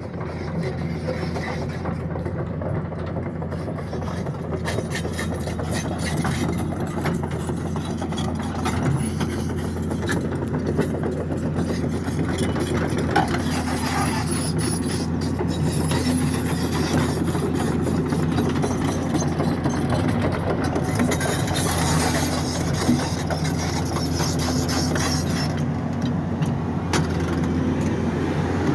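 Excavator's diesel engine running steadily under work, with scattered short clanks and knocks from the machine.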